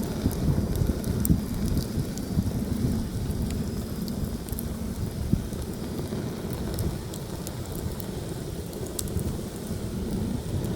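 Heavy wind buffeting the microphone in a continuous gusting low rumble. Over it, a campfire crackles with scattered small sharp pops.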